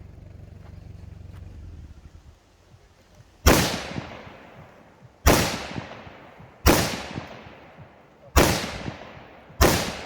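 Five rifle shots at an uneven pace, each with a long echoing tail, starting a few seconds in. A low rumble fades out before the first shot.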